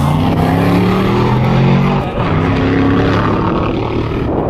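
1949 Cadillac Series 62 coupe's V8 accelerating hard, its pitch rising, with a shift to the next gear about two seconds in, after which it climbs in pitch again.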